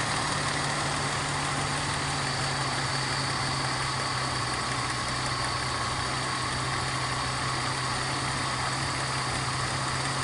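BMW E36's M52 B20 inline-six engine idling steadily while misfiring; the mechanic puts the misfire down to an ignition coil leaking spark.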